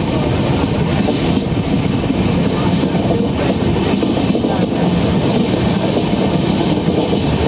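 Passenger train running at speed, heard from on board: a steady rumble of wheels on the rails.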